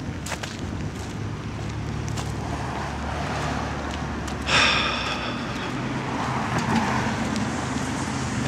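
A motor vehicle's engine running steadily at idle, with one brief high-pitched squeak about four and a half seconds in.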